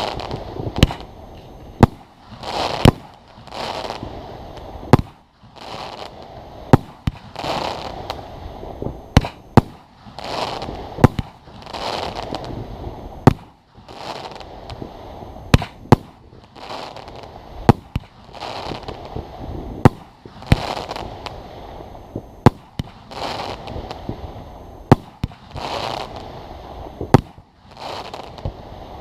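Aerial fireworks going off: a sharp bang every second or two, each followed by a short rush of noise.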